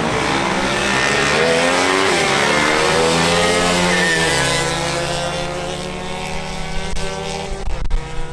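Racing motorcycle engine running at high revs, its pitch swelling and sweeping for the first few seconds, then settling into a steadier, lower note. A sharp click comes near the end.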